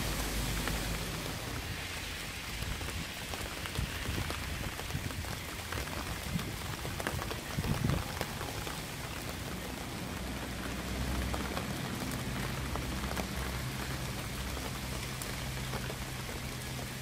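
Steady rain falling, with many individual drops ticking sharply against a surface, a few louder ones about four and eight seconds in, over a steady low hum.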